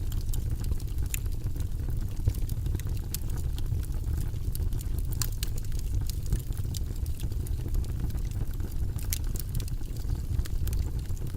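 Wood fire burning in a fireplace: a steady low rumble of flames with frequent, irregular crackles and pops, a few of them sharper snaps.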